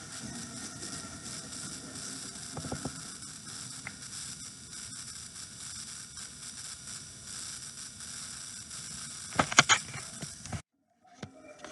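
Wind buffeting the microphone, a steady crackling hiss, with a cluster of sharp clicks near the end before the sound cuts out.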